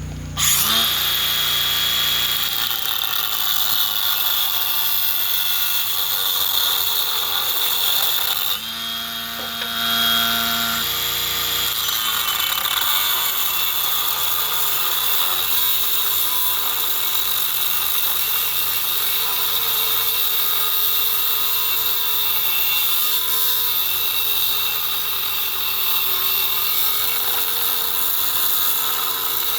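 Electric power tool working steel: a steady harsh grinding noise over a motor whine that wavers in pitch with the pressure on it. About eight seconds in it eases off briefly, the motor whine showing more clearly, then bites back in.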